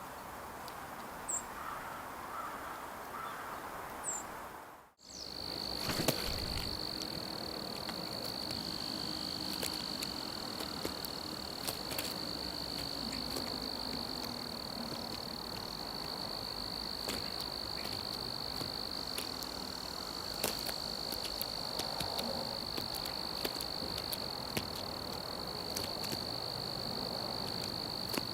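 Cricket trilling steadily on one high pitch. It starts after a brief drop-out about five seconds in, with scattered light clicks and taps around it. A couple of short high bird chirps come before the drop-out.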